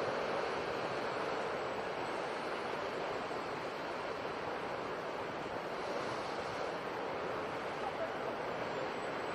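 Sea surf washing steadily, an even rush of water without distinct breaking waves.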